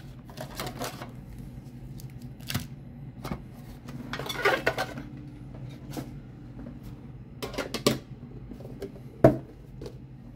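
Small metal collector tin being opened and handled, with scattered clicks and light metallic clanks. A rustle of wrapping comes about four to five seconds in.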